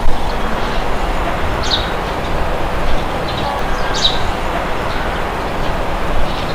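Steady wind with a low rumble, with a few short high bird chirps over it, the clearest about two seconds and four seconds in.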